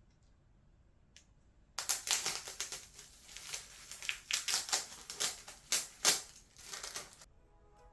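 Dense, irregular crackling and crunching rustle that starts about two seconds in and stops suddenly about five seconds later.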